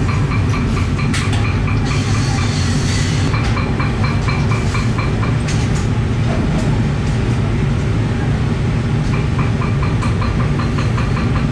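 Workshop machinery running steadily, with a rapid, even clatter that comes and goes in stretches.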